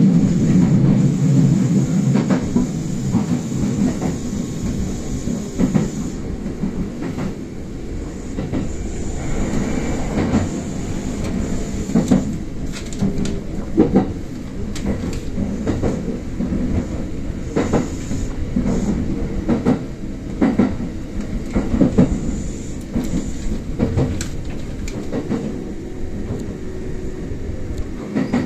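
Kintetsu express electric train running on standard-gauge track, heard from the leading car: a steady rumble of wheels and running gear, heaviest in the first couple of seconds, with scattered sharp clicks and knocks as the wheels pass over rail joints.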